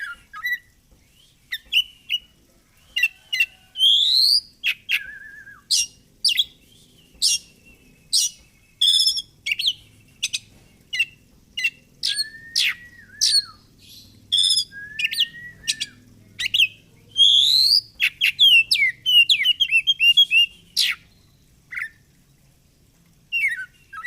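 Oriental magpie-robin (kacer) singing: a fast run of sharp whistled notes, chirps and rising and falling glides, with a short pause near the end.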